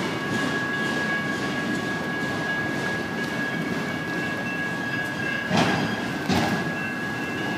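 BNSF autorack and intermodal freight cars rolling past, a steady rumble of wheels on rail over a steady high-pitched ring. Two louder clanks stand out about five and a half and six and a half seconds in.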